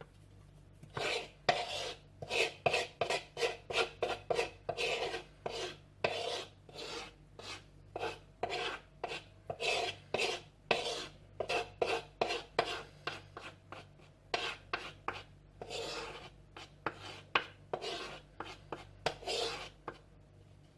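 A utensil scraping thick chocolate cake batter out of a mixing bowl into a mug, in quick repeated scraping strokes, about two or three a second, with a short pause about two-thirds of the way through.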